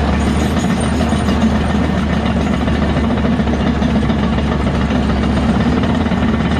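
Heavy diesel engine of earthmoving machinery running steadily with a deep low drone.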